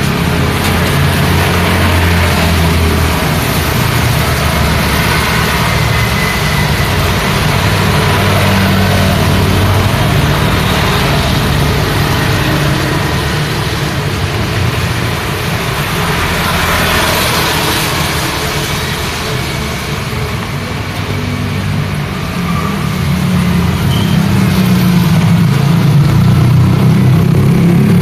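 Road traffic in the rain: car and motorbike engines running steadily with a continuous hiss of rain and wet road noise, one vehicle swelling past a little after halfway.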